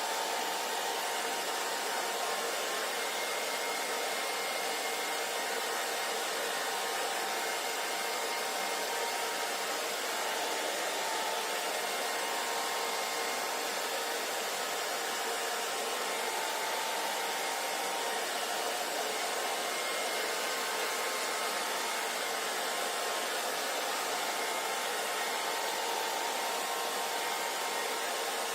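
Hair dryer running steadily, a constant blowing rush of air with a faint motor hum in it.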